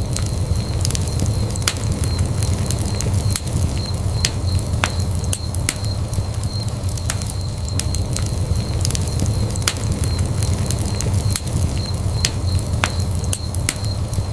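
Fireplace fire burning, with a steady low rumble of the flames under frequent sharp crackles and pops at irregular intervals.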